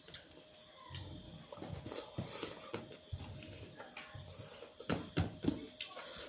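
Close-miked chewing and mouth sounds of someone eating: irregular soft wet thuds and clicks of food being chewed.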